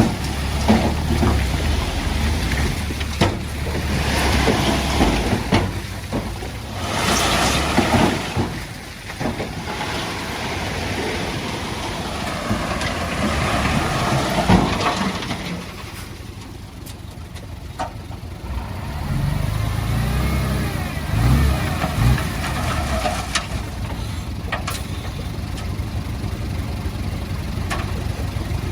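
Diesel engines of heavy earthmoving machinery running and working under changing load, a steady low rumble with several stretches of louder rushing, scraping noise.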